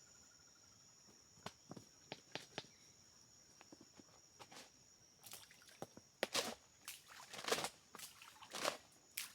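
Steady high-pitched trill of insects, with irregular clicks, knocks and scuffs starting about a second and a half in and growing denser and louder over the second half.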